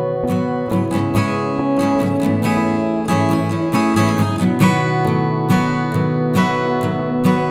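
Background music: an acoustic guitar playing plucked and strummed chords in a steady rhythm.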